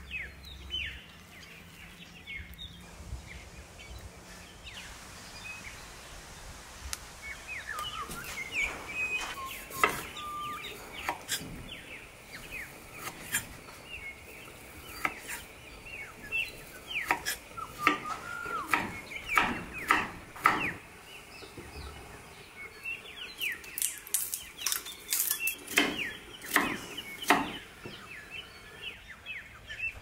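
Birds calling, many quick whistled notes sliding steeply down in pitch, bunching in two busy spells in the second half, over a faint steady high hum, with a few sharp clicks.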